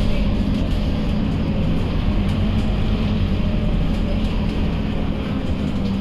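Scania K230UB bus's diesel engine running steadily under way, a continuous low drone with road noise.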